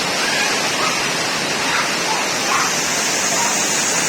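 Heavy rain pouring down steadily, a dense even hiss, with faint voices in the background.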